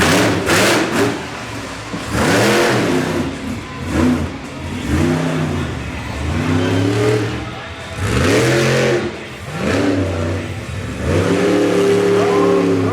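Monster truck engine revving hard, its pitch climbing and falling again and again as the throttle is opened and let off, with several louder noisy surges.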